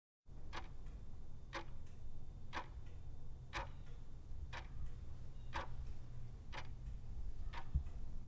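A clock ticking once a second, eight ticks in all, over a low steady hum. It starts and stops abruptly.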